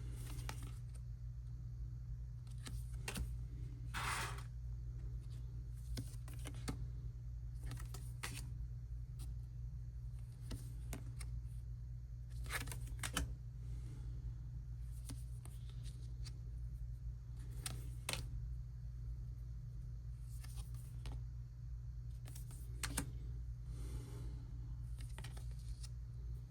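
Scattered light clicks and rustles of photo cards and paper inserts being handled and laid down at irregular intervals, with one longer rustle about four seconds in, over a steady low hum.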